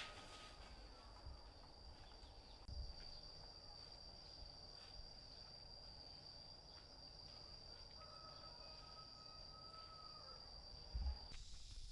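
Faint, steady, high-pitched insect buzz that cuts off abruptly near the end, with a brief low thump just before it stops.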